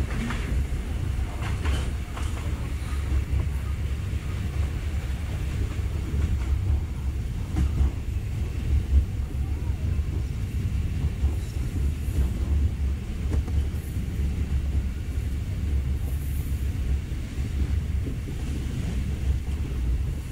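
KTM Senandung passenger train running at speed, heard from inside the carriage as a steady low rumble with a few faint knocks from the wheels on the track.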